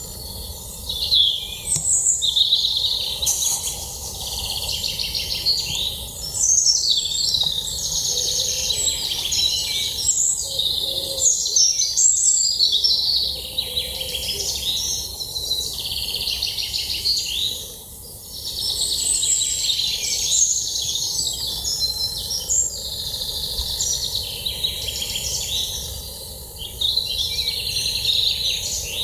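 Songbirds singing, many overlapping chirps and trills at once, with a short lull partway through.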